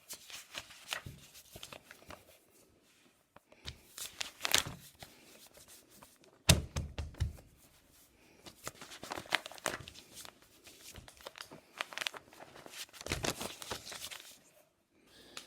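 A sheet of paper rustling and crinkling in irregular bursts as it is folded into a paper airplane. There is a dull thump about six and a half seconds in.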